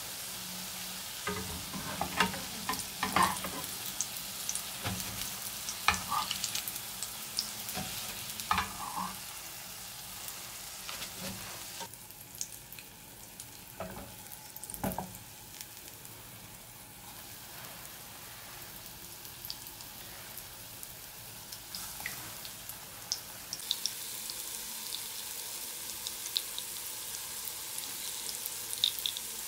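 Cottage cheese sticks sizzling in hot oil in a frying pan, with a scatter of sharp clicks and knocks in the first ten seconds or so. The sizzle quietens for a while, then grows louder about 24 seconds in as fresh raw sticks go into the oil.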